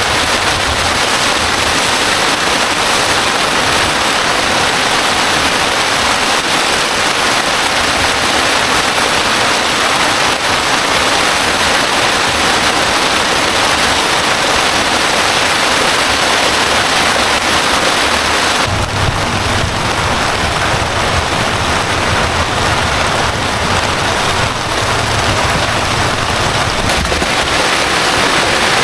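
Heavy rain falling steadily, a loud even hiss. A little over halfway through the sound changes abruptly to a deeper rumble with less hiss.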